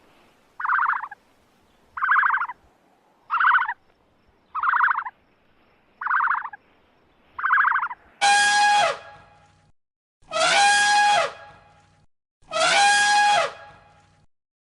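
Animal calls: seven short, rasping calls evenly spaced, then three longer, louder calls, each with a falling pitch.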